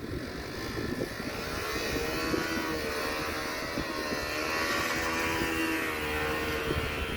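Bajaj Dominar motorcycle engine held at high revs, its pitch wavering up and down as the bike is drifted round in a circle.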